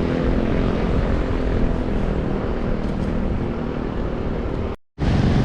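Wind buffeting the microphone of a camera on a moving bicycle, a loud rushing noise with a faint steady hum underneath. The sound cuts out for a split second near the end.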